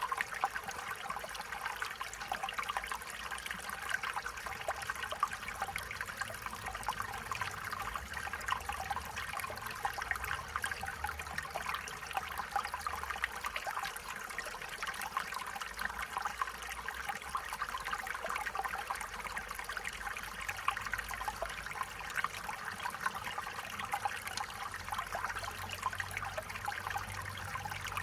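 Stream water flowing and trickling steadily, a continuous babble of small splashes over the running water.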